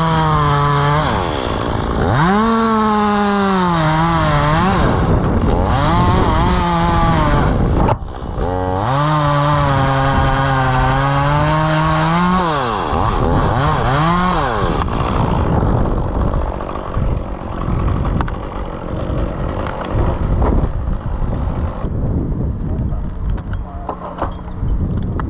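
Chainsaw running at high revs, its pitch sagging and climbing again several times as it cuts maple wood, then winding down about 14 seconds in. Afterwards wind noise and scattered knocks.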